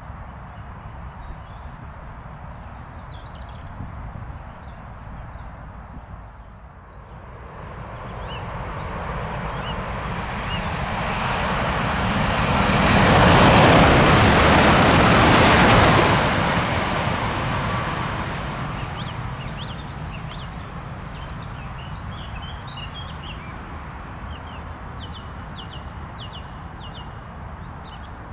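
A high-speed train passing on the line at speed: a rushing noise that builds over several seconds, is loudest for about three seconds in the middle, then fades away.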